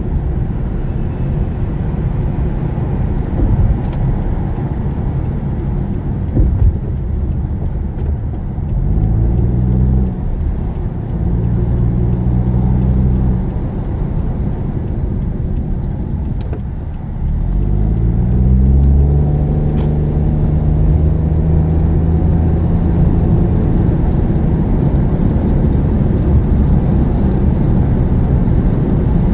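Car engine and tyre rumble heard from inside the cabin. The engine note rises as the car speeds up about nine seconds in, and again just past halfway, then holds steady.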